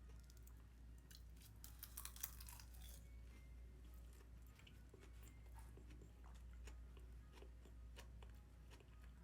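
Faint chewing and crunching of food, with scattered small clicks and a denser crackle about two seconds in.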